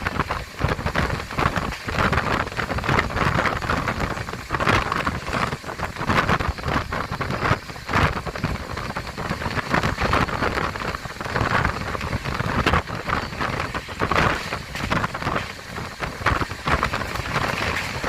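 Train running at speed, heard from on board: continuous rushing noise packed with irregular rattling and clatter.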